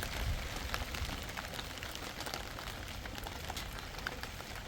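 Steady rain, with scattered sharp drop impacts ticking on a surface.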